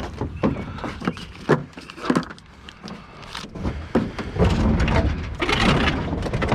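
Irregular knocks, clunks and rattles of metal scrap being handled and shifted on a vehicle's liftgate carrier, with a louder scraping, rumbling stretch about four to six seconds in.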